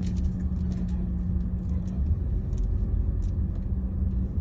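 Car driving: steady engine and road rumble with a constant low hum, and scattered short clicks and rattles.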